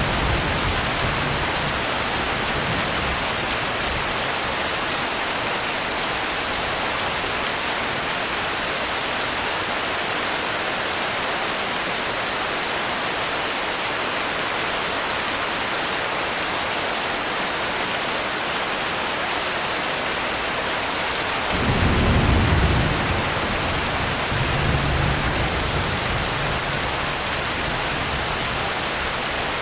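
Steady, even rain with thunder. A low rumble fades out in the first second. About 22 seconds in, a sudden louder thunder rumble starts and rolls on for several seconds.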